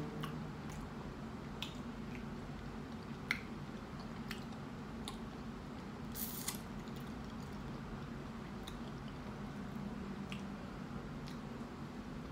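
Close-up wet chewing of a soft burrito, with small mouth clicks and squishes, over a steady low hum. A brief louder crackle comes about six seconds in.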